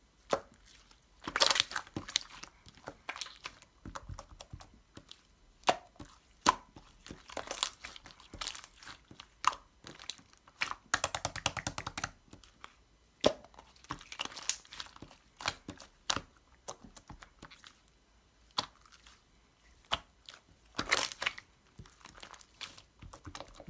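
Close crinkling, crackling and tearing handling sounds with scattered sharp clicks. There is a quick run of crackles about eleven seconds in, and denser bursts near the start and near the end.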